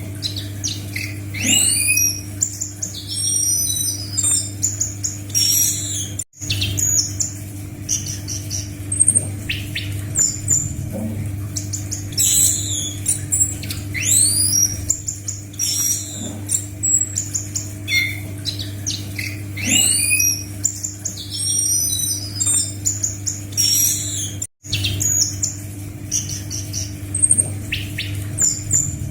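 Loud, varied song of an anis macan thrush: quick sweeping whistles and rapid high chirps in repeating phrases, played as a looped training recording that breaks off for an instant twice. A steady low hum runs underneath.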